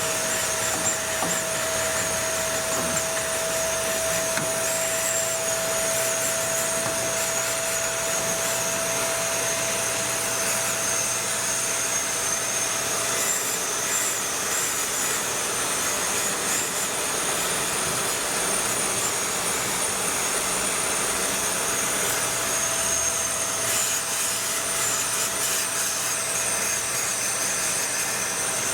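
Steady rush of air and high whine from a small electric cleaning motor, working through the engine bay.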